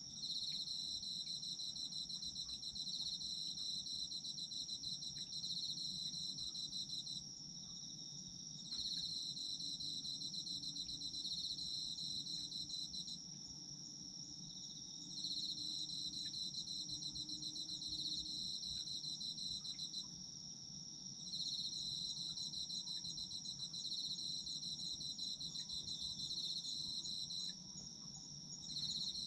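Autumn crickets chirping in chorus. One insect keeps up a steady, unbroken high trill, while a second, slightly lower pulsed trill comes in bouts of about six seconds with short pauses between them.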